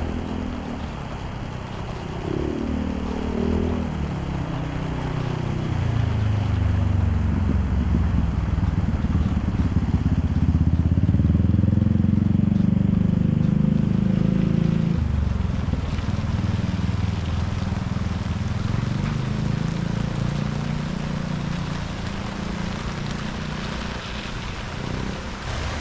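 A motor vehicle's engine passes by, its pitch shifting as it grows louder to a peak about halfway through and then fades. Steady rain hiss runs underneath.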